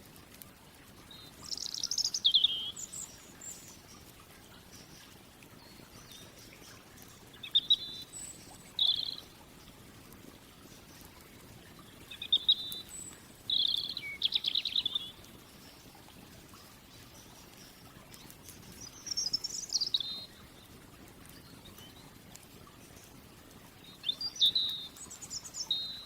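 Birds singing: short bursts of high chirps and trills, about five phrases a few seconds apart, over a faint steady background.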